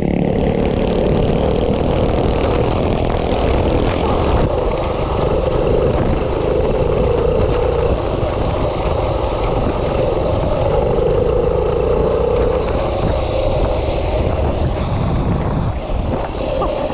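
Minibike's small engine running steadily under throttle while being ridden, its pitch wavering slightly, over a heavy low rumble. The engine eases off briefly near the end.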